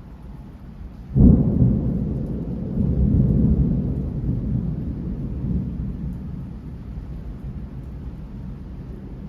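A thunderclap breaks suddenly about a second in, then rumbles on with a second swell and slowly dies away over several seconds, over the steady hiss of rain.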